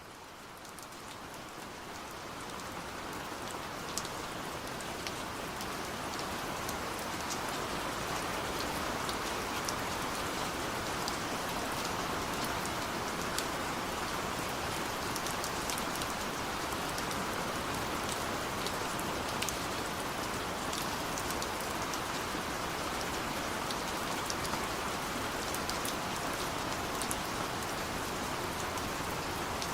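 Steady rain falling on a surface, a dense hiss with many small drop impacts, fading in over the first several seconds and then holding even.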